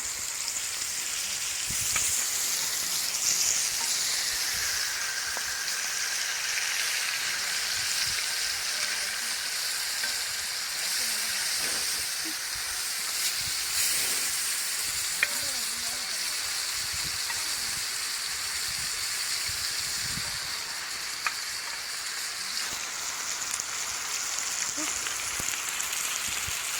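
Masala-coated theli fish pieces frying in hot oil on a dosa griddle: a steady sizzle, with two sharp pops in the second half.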